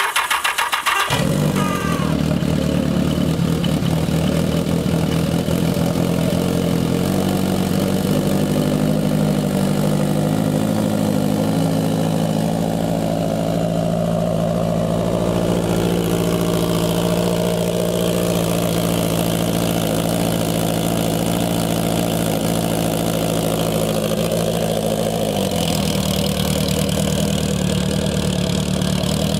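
1981 Yamaha XS1100's air-cooled inline-four engine being started: it catches about a second in and settles into a steady idle. The note shifts slightly near the end.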